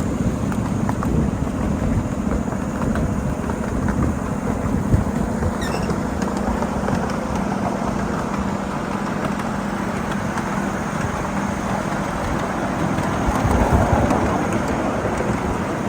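A 7.5-inch gauge ride-on miniature freight train rolling along its track: a steady rumble of wheels on rail, with many small clicks and a steady low hum.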